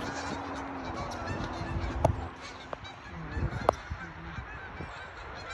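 A flock of geese honking, many short overlapping calls. Two sharp clicks stand out about two seconds and three and a half seconds in.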